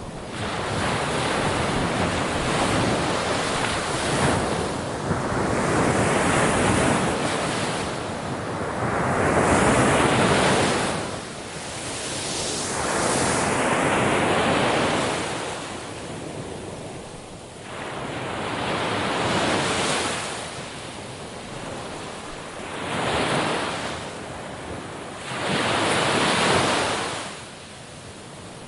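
Ocean waves breaking on a shore, the rushing surf swelling and ebbing as a new wave comes in every few seconds.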